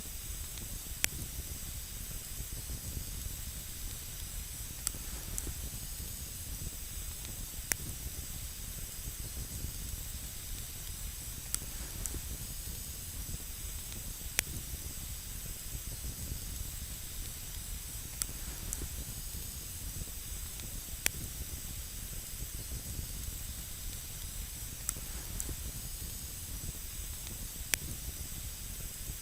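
Campfire burning with a steady hiss, and a sharp crackle or pop from the burning wood every few seconds.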